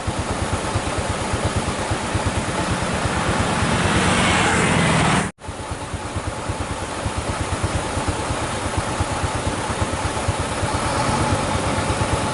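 A truck engine running with a rapid, steady pulse. It grows louder up to a sudden break about five seconds in, then runs on steadily again.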